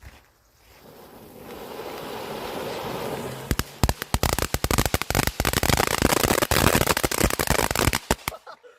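A firework going off: a hiss that builds over about two seconds, then a rapid, dense run of loud cracks and bangs for about five seconds that stops abruptly.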